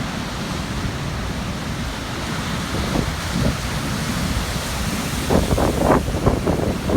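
Large Atlantic surf breaking and churning on a rocky shore at high tide, a steady rushing wash with a low rumble. From about five seconds in, wind buffets the microphone in uneven gusts.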